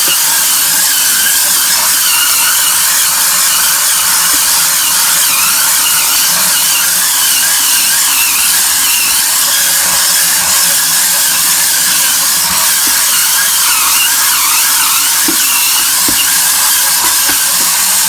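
BulbHead Hurricane Spin Scrubber's battery motor running with its spinning brush scrubbing an acrylic sink: a loud, steady, high whirring with a wavering squeal that switches on abruptly and runs without a break.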